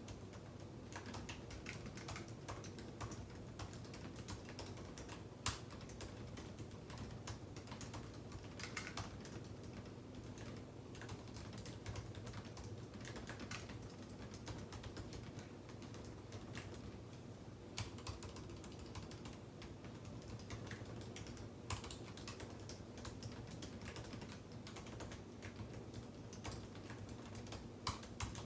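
Computer keyboard being typed on in a continuous, quick run of keystrokes, with a few louder single key presses standing out now and then.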